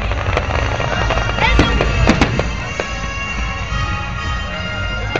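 Fireworks exploding overhead: a string of sharp bangs and cracks, thickest in the first three seconds and then thinning out, with music playing the whole time.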